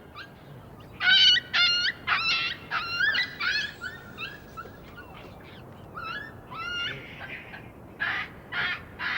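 Puppy whimpering and yelping in a run of high-pitched cries. Near the end come harsher, rougher calls, about two a second.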